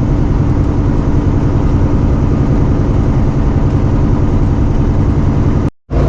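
Semi truck's diesel engine and road noise droning steadily inside the cab while driving, broken by a brief dropout near the end.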